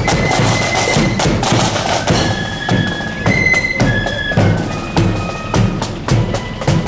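Marching flute band playing: flutes in unison carry a melody of held high notes over bass drum and snare drum beats.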